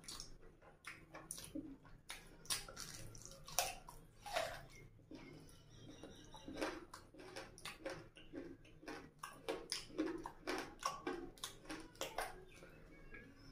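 Close-miked wet chewing and lip-smacking of someone eating rice and curry by hand, an irregular run of short smacks with soft squelches of fingers working the rice.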